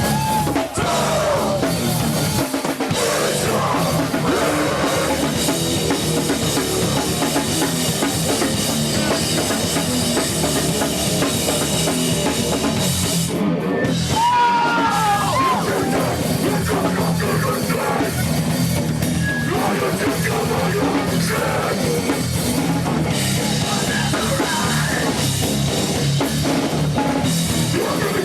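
A live heavy rock band playing loudly: a pounding drum kit under guitars, with no break in the music.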